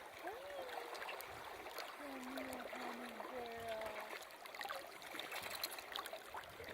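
Shallow river current running and trickling, with small clicks of water lapping. A few faint, brief wavering tones come through in the first four seconds.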